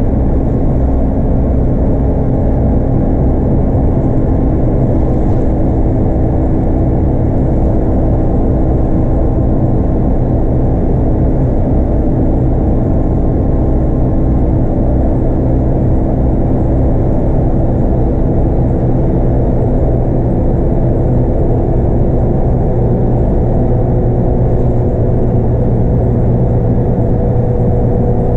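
Scania DC9 five-cylinder diesel of a Scania K230UB bus running steadily under way, heard from inside the bus along with road noise. A humming tone slowly rises in pitch as the bus gathers speed.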